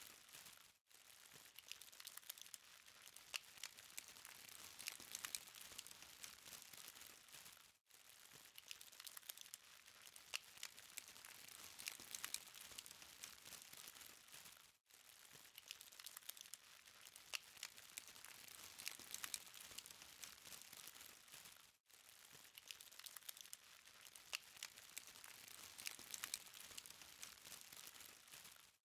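Charcoal fire crackling quietly, a dense run of small sharp ticks and pops over a soft hiss. The sound drops out for an instant about every seven seconds.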